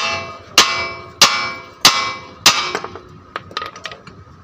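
Hammer striking metal: five heavy ringing clangs about 0.6 s apart, then a few lighter, quicker taps a little after three seconds in.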